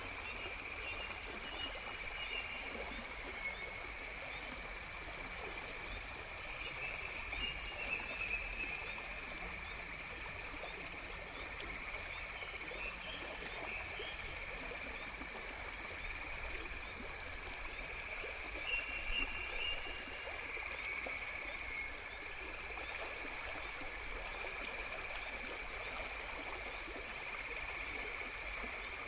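Natural outdoor ambience: a steady high-pitched chorus of calling animals over an even hiss. A rapid, very high chirping trill comes in about five seconds in and runs for about three seconds, then returns briefly near nineteen seconds.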